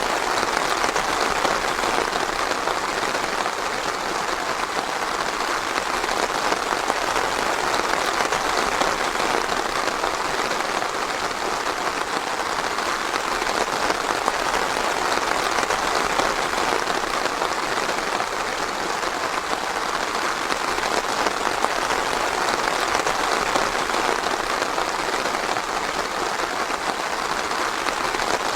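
Steady rain falling in a forest: an even, unbroken patter.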